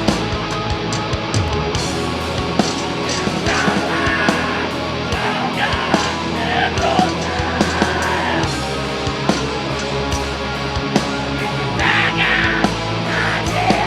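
A metal band playing live: distorted guitars, bass and drum kit, with harsh yelled vocals coming in about three seconds in and again near the end.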